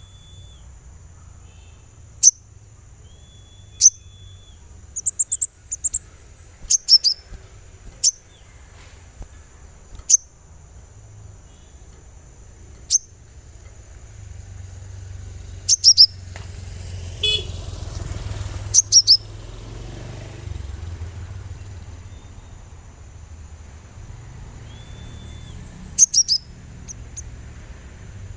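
Sunbird calling: short, sharp, very high chirps that fall in pitch, singly and in quick clusters of two or three, over two steady high-pitched tones. A rush of hiss swells in about halfway through and fades again a few seconds later.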